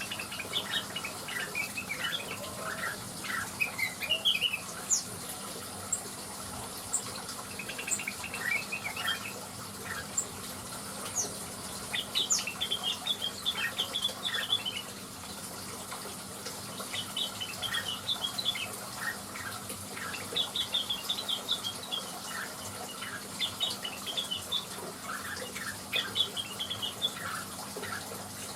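Blue-winged leafbird (cucak wilis) singing: bursts of quick, varied chirps and twitters, each a second or two long with short pauses between, over a steady rushing background like running water.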